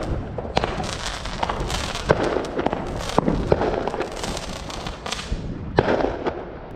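New Year's Eve fireworks going off: a dense, uneven crackle of bangs and cracks, thinning out near the end.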